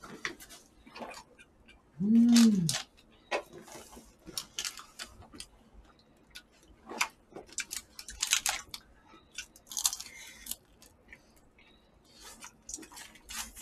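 Close-miked eating sounds of people chewing jokbal (braised pig's trotters): soft chewing with many small smacks and clicks. About two seconds in, a short hummed "mmm" rises and falls in pitch.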